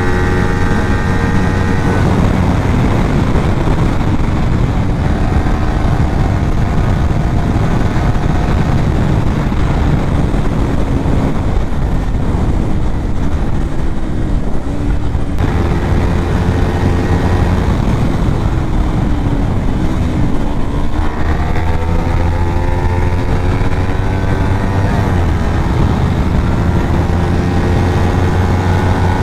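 Kawasaki Ninja 400's parallel-twin engine under way, its pitch climbing in several sweeps and dropping back at the gear changes, most clearly about two-thirds through, under heavy wind and road rush.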